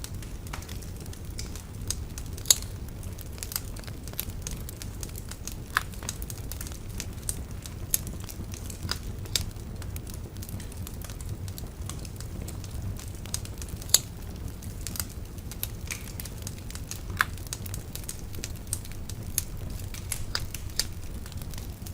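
Wood bonfire crackling and popping irregularly over a steady low rumble, with two sharp pops standing out, one about two seconds in and one about halfway through.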